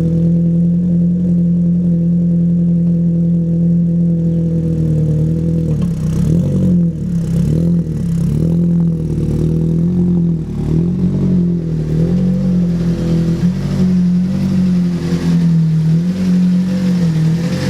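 Ford Focus RS Mk1's turbocharged 2.0 litre four-cylinder engine idling on a cold start, its note steady at first and then wavering up and down from about six seconds in.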